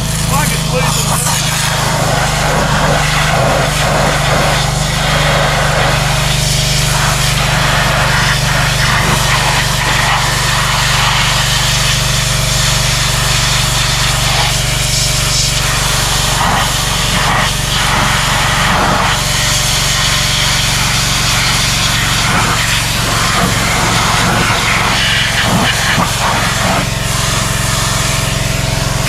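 Pressure washer with its engine running steadily, its spray hissing and swelling and fading as the wand is played over a dirty tractor.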